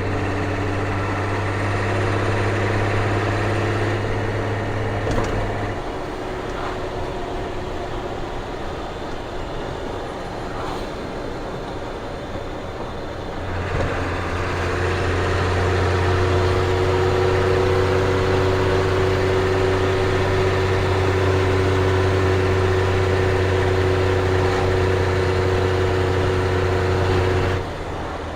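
Ford CF7000's 6.6 L Brazil diesel heard from inside the cab while the truck drives, a steady hum. The engine pulls for the first few seconds, eases off for several seconds, then pulls harder again from about halfway until it drops back abruptly near the end.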